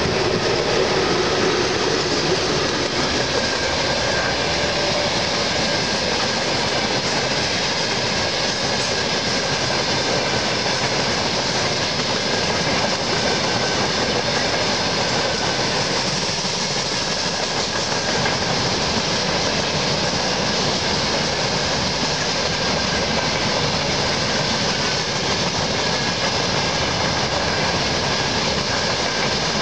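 Freight train hauled by a VL10U electric locomotive rolling past: a steady rumble and clatter of wagon wheels over the rail joints. There is a humming tone in the first few seconds as the locomotive goes by, and a thin high whine runs underneath.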